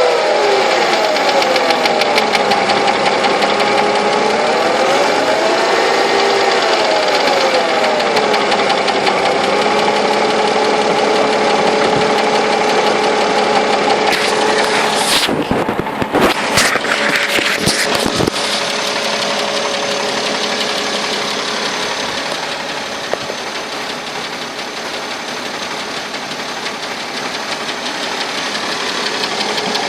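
Mercedes-Benz W211's M112 V6 petrol engine running with a knock, its speed rising and falling gently in the first few seconds before settling. A few sharp clicks come near the middle.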